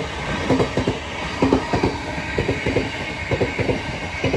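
A pair of Southeastern Class 707 electric multiple units passing through at speed, the wheels clattering over the rail joints in quick, uneven clicks above a steady rumble.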